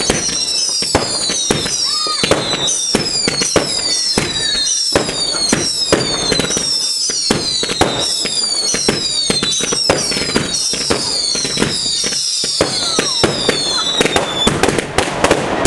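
Fireworks going off in quick succession: a run of overlapping high whistles, each falling in pitch, about two a second, mixed with many sharp bangs and crackles. The whistles stop about 14 seconds in while the bangs carry on.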